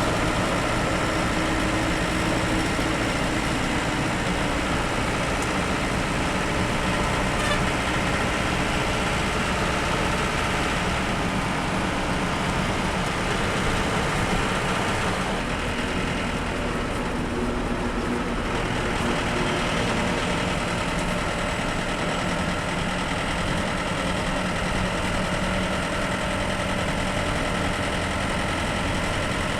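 Bus engine running under way, with steady road and tyre noise.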